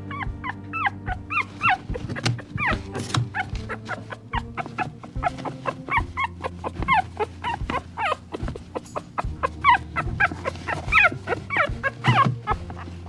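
Many small animals crying at once in short, high-pitched cries that fall in pitch, several a second and overlapping, over background music.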